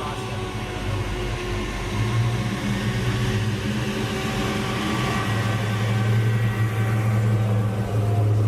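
A car's engine running with a steady low rumble that grows slightly louder in the second half.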